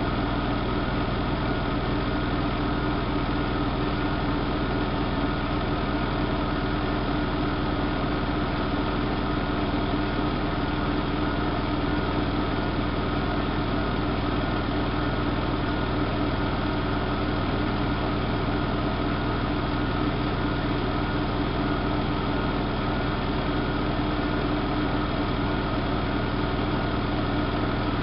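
Siemens Siwamat IQ washing machine running steadily: a constant motor hum with a steady tone that never changes.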